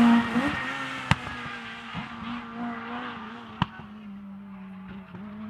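Rally car engine at speed on the circuit, its note holding steady as it fades into the distance. There is a loud crack at the start and two more sharp cracks, about a second and three and a half seconds in.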